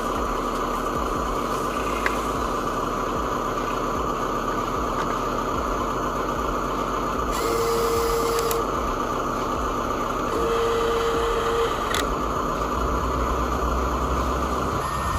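Radio-controlled model truck's electric motor and gearbox whining steadily, with two long electronic beeps, each about a second, a little past the middle.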